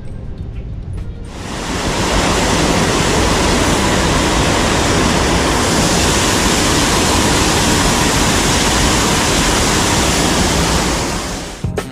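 Steady rush of water, like a creek pouring over a dam, cutting in suddenly about a second in and fading out near the end.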